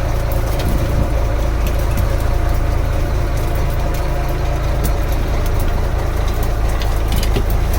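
Fishing boat's engine idling with a steady low drone, with scattered light ticks over it.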